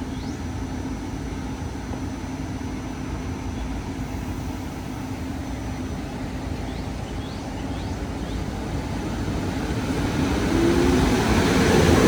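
Low rumble of a SEPTA Regional Rail electric multiple-unit train, steady at first and then growing steadily louder from about eight seconds in as the train approaches.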